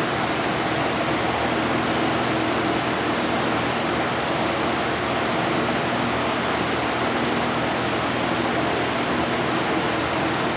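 Steady air-moving noise of a running fan or blower, with a faint low hum underneath and no change in level.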